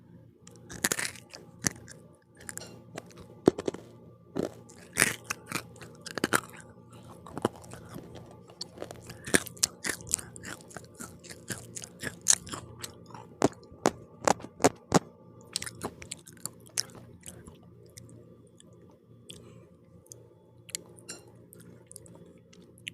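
Close-mic chewing of pizza with a crunchy crust: many crisp crunches come thick and fast for about the first fifteen seconds, then give way to softer, sparser chewing.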